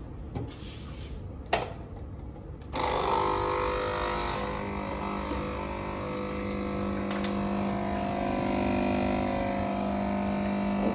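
A click, then about three seconds in a stove's cooling fan starts running with a steady hum and whir, several steady tones over a hiss. The stove was left switched on and is cooling down.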